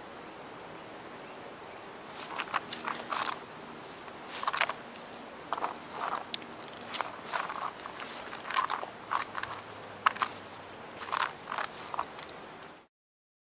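Irregular crunching and crackling of dry leaves and twigs on a woodland floor, a few short bursts a second, over a steady outdoor hiss; it cuts off abruptly near the end.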